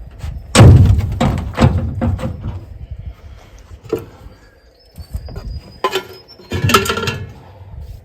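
Heavy thuds and knocks, like metal parts or tools being handled: one loud thud about half a second in, several more over the next second and a half, then another cluster of knocks with a brief ringing near the end.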